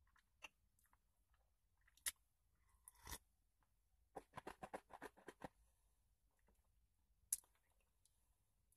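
Close-up chewing of a sandwich loaded with vegetables: mostly quiet, with a few isolated soft clicks and a quick run of crisp crunches about four seconds in.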